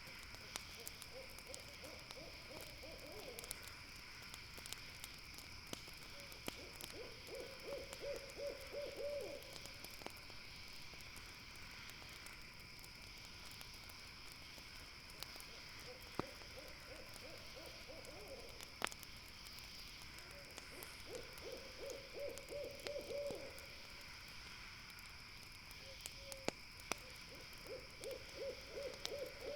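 An owl calling: a low, rapid trilled hoot lasting two to three seconds, given five times at uneven gaps.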